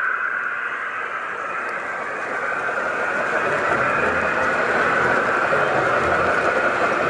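Train running by, its noise building toward the end, with a steady high-pitched tone through it and low thumps in the later part.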